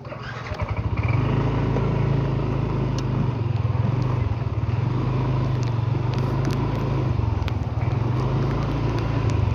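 A vehicle engine comes up about half a second in and then runs steadily with a low drone, shifting slightly a couple of times, with a few sharp ticks over it.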